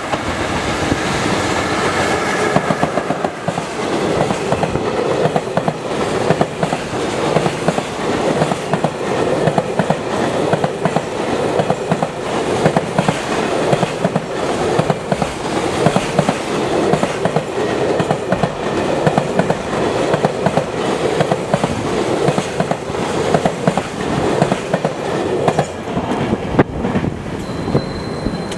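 Container freight train wagons running past, their wheels clattering over the rail joints in a dense, steady, rapid rhythm.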